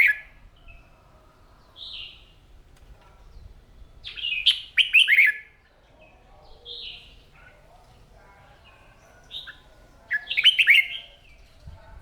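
Red-whiskered bulbul singing: short bursts of quick, clear notes three times, at the start, about four seconds in and about ten seconds in, with single whistled notes between them.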